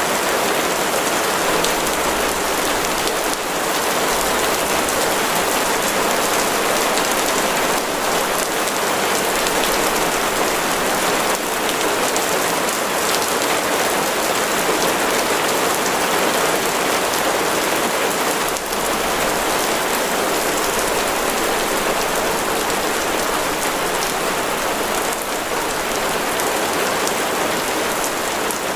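Heavy rain falling steadily, a dense even hiss of drops hitting a surface with no let-up.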